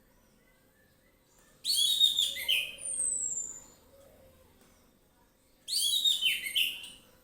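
Orange-headed thrush singing: two short phrases of rapid, varied, falling notes about four seconds apart, the first followed by a thin falling whistle.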